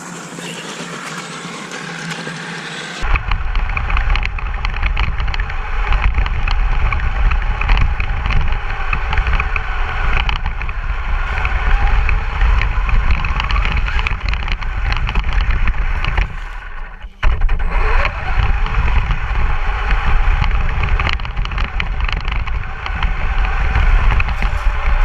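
Traxxas Stampede RC truck driving, with a loud steady rumble that comes in abruptly about three seconds in and drops out briefly about two-thirds of the way through.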